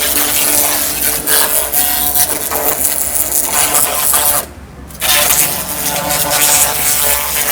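Electric pressure washer spraying a high-pressure water jet to rinse foam off a motorbike, a steady hiss of spray over the pump's hum. The spray stops briefly about four and a half seconds in, then starts again.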